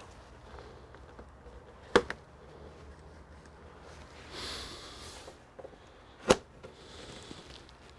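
Two sharp clicks or knocks about four seconds apart, with a short scraping or rustling sound between them, from tools and parts being handled while a computer is taken apart.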